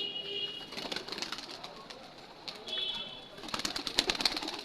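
Birds chirping in short bursts of high calls, with a low cooing note at the start and a quick run of sharp clicks about three and a half seconds in.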